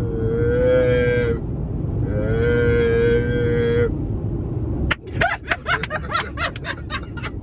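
A singing voice holds two long, steady notes, ending a gospel song, then laughter breaks out about five seconds in. A steady low road rumble from inside a moving car runs underneath.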